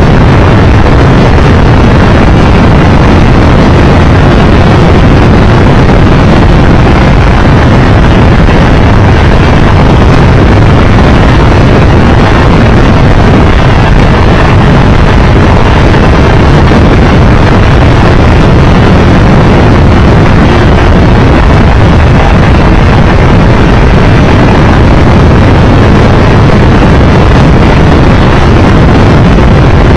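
Loud, steady wind buffeting the microphone of a Triumph Tiger Explorer 1200 motorcycle on the move, with engine and road noise mixed in.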